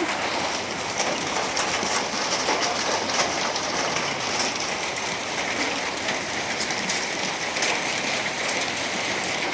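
Steady heavy rain falling on a surface, with many small drop ticks through an even hiss.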